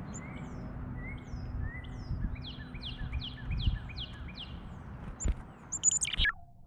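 Small songbird calling: a quick run of about seven short, falling whistled notes in the middle, with scattered high chips around it and a sharper high call near the end, over a steady low background hum. The audio cuts off abruptly just before the end.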